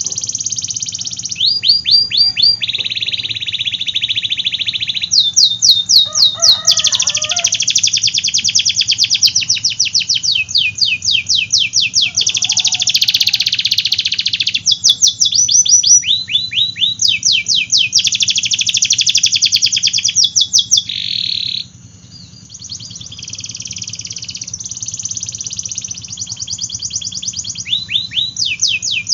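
Domestic canary singing a long, unbroken song of fast trills and rolls, with runs of quick downward-sweeping notes repeated many times a second. The song dips briefly about three-quarters of the way through, then carries on.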